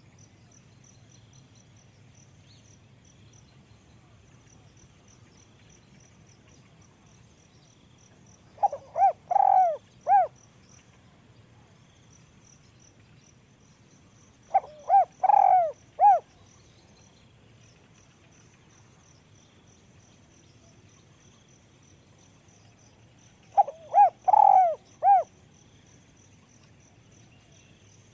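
Spotted dove cooing: three phrases of about four quick coos each, several seconds apart, its voice described as small. Faint high insect chirping runs underneath.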